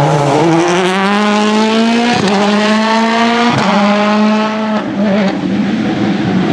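Citroen C3 WRC Plus rally car's turbocharged 1.6-litre four-cylinder engine accelerating hard, its pitch climbing through the revs with two quick upshifts a little over a second apart, then lifting off about five seconds in.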